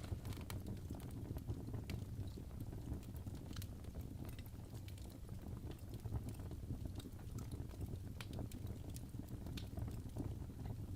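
Crackling fireplace: a steady low hum of burning wood with irregular sharp pops and crackles scattered throughout.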